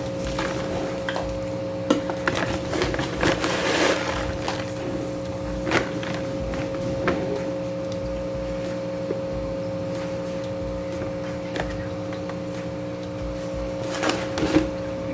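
Aquarium soil granules poured and spread in a glass tank, with scattered rustles and clicks, busiest a couple of seconds in and again near the end, over a steady low hum.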